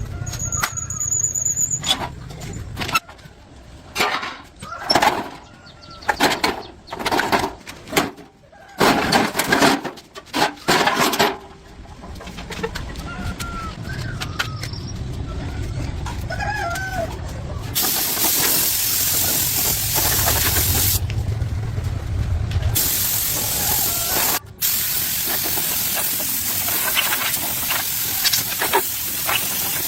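A string of short knocks, scrapes and bursts of work noise, then a few small squeaks, then a steady loud spraying hiss that carries on, broken briefly by a low rumble.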